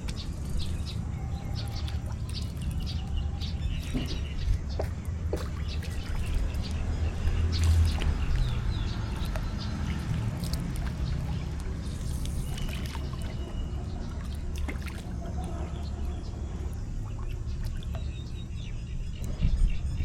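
Outdoor ambience: a steady low rumble with scattered small clicks and a few faint bird chirps.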